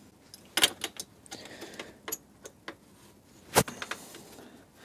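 Scattered light metal clicks and taps from hand tools on the motorcycle's exhaust fitting as it is threaded on and the tool is set against it, with one sharper click about three and a half seconds in.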